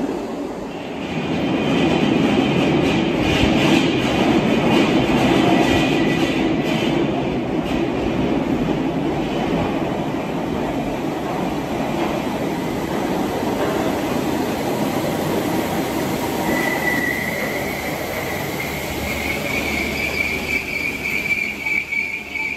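Merseyrail Class 507/508 electric multiple unit running through an underground station, with a heavy rumble and rapid clicking over the rails early on. About two-thirds of the way through, a long high wheel squeal starts and rises slightly in pitch as the train brakes into the platform.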